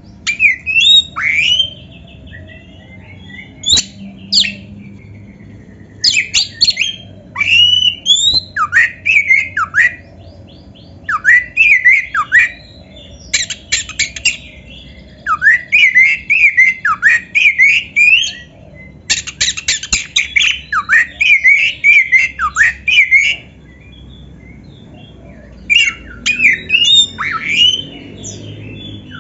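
Oriental magpie-robin (kacer) singing: loud bursts of varied, sweeping whistles mixed with rapid harsh notes, broken by pauses of a second or two.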